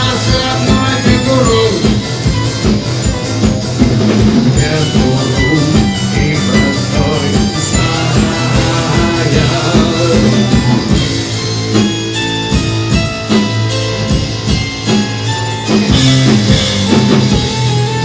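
Rock band playing live: drum kit, electric guitar and bass guitar in an instrumental passage of a song.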